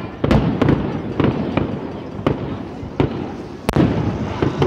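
Aerial firework shells bursting overhead: a string of sharp bangs at irregular spacing, roughly one or two a second, with a low rumble between them and the loudest bang about three-quarters of the way through.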